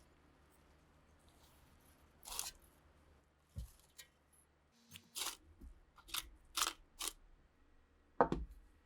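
Hand work on small pistol parts: five short scraping strokes and two dull knocks, the loudest knock near the end.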